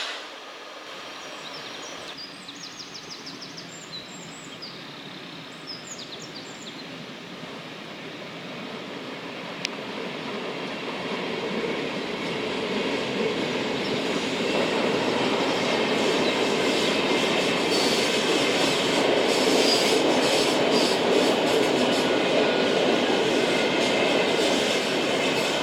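A train approaching and running past on the track. Its rolling noise builds from about a third of the way in to a steady loud level, with a thin high wheel squeal over it.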